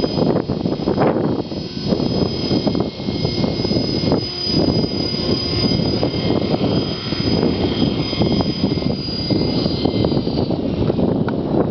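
Blade 400 electric RC helicopter flying, its motor and rotor giving a steady high whine that fades out near the end, under heavy wind buffeting on the microphone.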